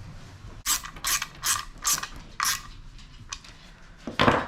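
Five short rasping strokes of a hand tool, about two a second, with a louder single burst near the end.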